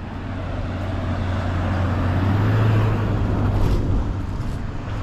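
A motor vehicle running, a steady low engine hum with road noise that builds to a peak about halfway through and then eases off.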